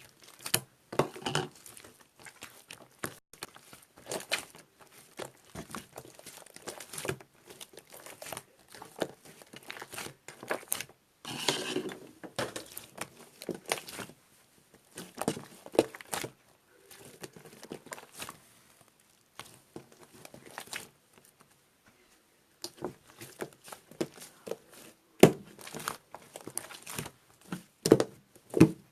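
Irregular crinkling and crackling handling noises, with a steady run of small clicks and a few sharper, louder snaps near the end.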